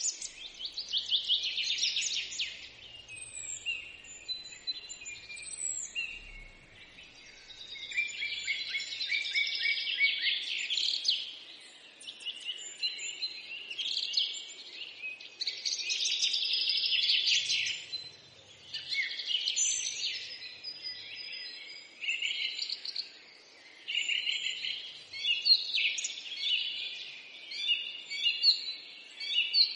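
Small birds chirping and singing, several overlapping trills and tweets in quick runs with short lulls between them.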